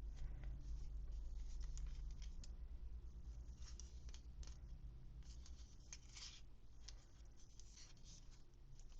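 Crisp, irregular rustling and small clicks of toy packaging being handled and opened, over a low steady hum.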